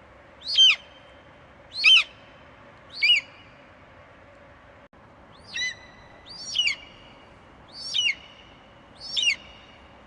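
An eagle screeching: seven short, high calls, each falling sharply in pitch, about one a second with a brief pause midway.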